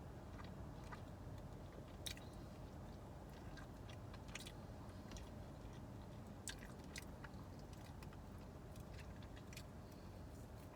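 Close-up chewing of rib meat: soft, wet mouth clicks and smacks scattered every second or so over a low steady hum.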